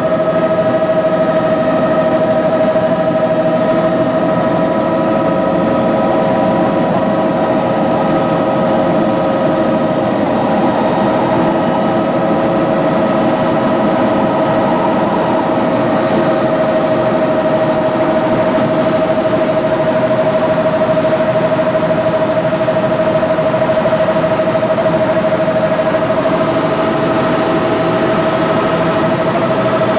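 Helicopter running steadily, a constant whine held over an even engine and rotor drone.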